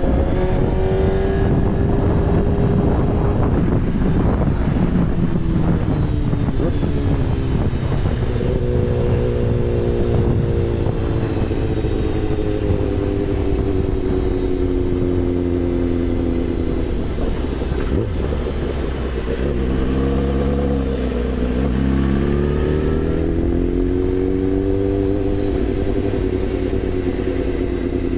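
Kawasaki ZX-10R's inline-four engine running under a rider, its pitch easing down for several seconds as the throttle is rolled off. About twenty seconds in it dips low, then climbs as the bike accelerates before easing off again.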